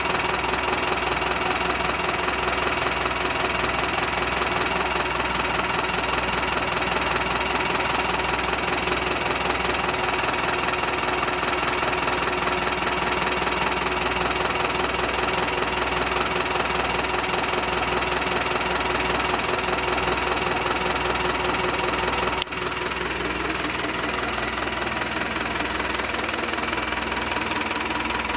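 Yanmar 4LH-WST four-cylinder marine diesel engine running steadily at a constant speed. About three quarters of the way through there is a brief sharp dropout, after which it runs a little quieter.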